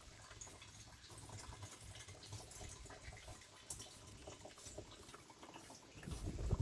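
Faint dripping and splashing water with small scattered clicks.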